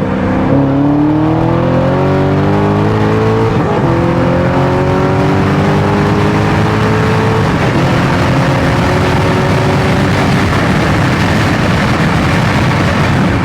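C6 Corvette Z06's 7.0-litre LS7 V8 at full throttle in a 60 to 130 mph pull, revs climbing steadily with two upshifts about four seconds apart, the pitch dropping at each shift. About ten seconds in the engine note fades, leaving a steady rush of noise.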